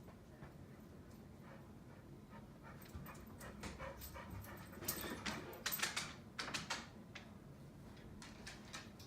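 A pit bull panting faintly. From about three seconds in, a run of short clicks and scuffs comes and goes.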